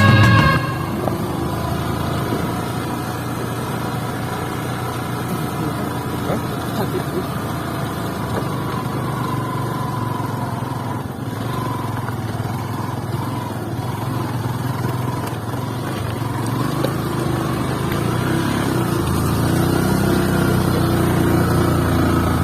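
Motorcycle engine running steadily on the move, growing a little louder near the end; background music cuts off just after the start.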